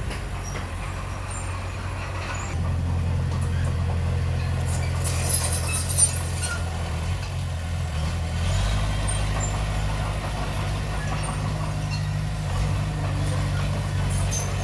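Diesel engine of heavy earthmoving machinery running steadily, its note shifting under changing load about two and a half seconds in and again around eight and a half seconds. A brief hiss and clatter comes about five to six seconds in.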